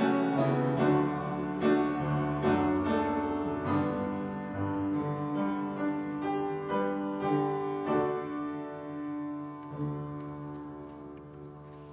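Solo piano playing a slow hymn, chords struck and left to ring. It gets gradually quieter, and a final chord about ten seconds in fades away.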